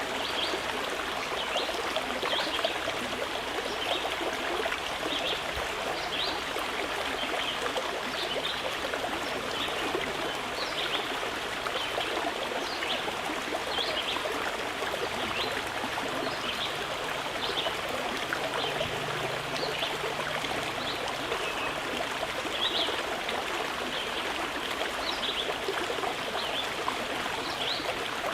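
Mountain river flowing steadily over rocks, a continuous rushing and trickling of water. Many short, high-pitched blips are scattered through it.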